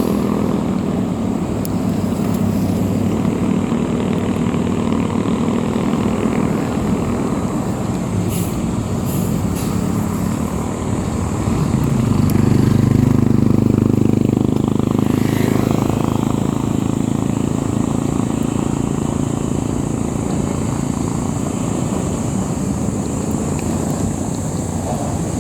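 Motor vehicle engine running steadily along the road, with road and wind noise. It grows louder for a couple of seconds about halfway through.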